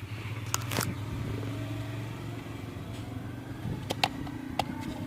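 An engine running steadily at idle, a low even hum, with a few sharp metallic clicks and taps over it.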